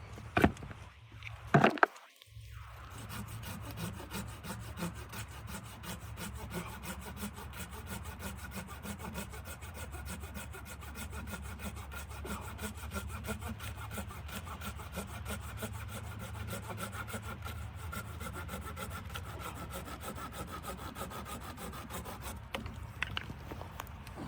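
Wood being sawn in a long, steady run of rapid strokes lasting about twenty seconds, after two sharp knocks at the start.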